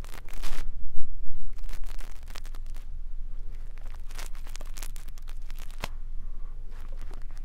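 Close-miked ASMR ear-cleaning sounds: a brush scratching and rustling against the microphone in irregular crackling strokes, loudest in the first second or two.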